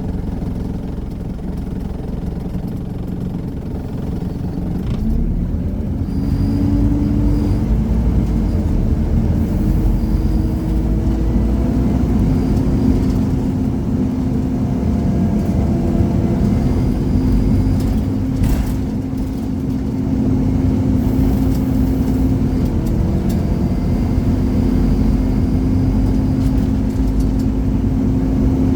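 Scania Omnicity single-deck bus with its 230 hp Scania engine driving along, heard from on board: a steady low engine rumble and drone that builds about five seconds in, dips briefly a few seconds after the middle, then picks up again.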